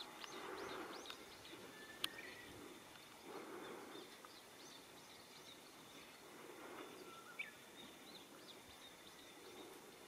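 Faint outdoor quiet with scattered short chirps of small birds, a quick run of them in the first second and a few more near the end, and a single sharp click about two seconds in.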